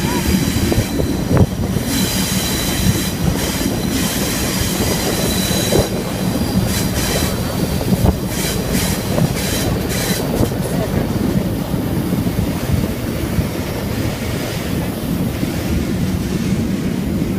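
Potomac Eagle excursion train rolling on the rails: a steady rumble of wheels and cars with high-pitched wheel squeal in the first half, which dies away after about ten seconds.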